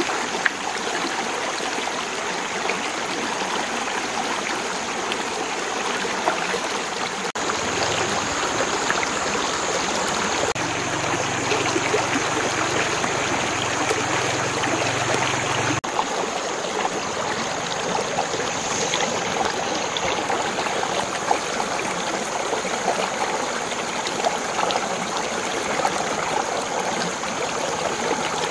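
Running water flowing steadily, with the sound changing abruptly twice where the footage is cut.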